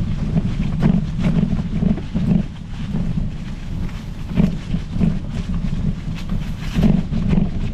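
Riding noise from a Specialized Epic Pro mountain bike on a trail: wind buffeting the microphone in uneven low rumbling gusts, with scattered clicks and rattles from the bike over the ground.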